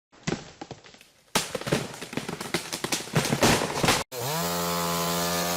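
A few sharp cracks, then about three seconds of rapid, dense cracking and snapping. After an abrupt cut, a chainsaw engine runs steadily and then revs up and down near the end.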